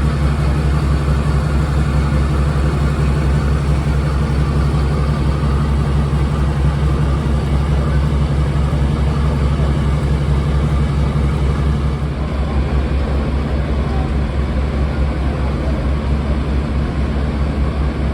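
Class 52 'Western' diesel-hydraulic locomotive D1015's two MTU V12 diesel engines running steadily with a deep, pulsing throb, a little quieter from about twelve seconds in.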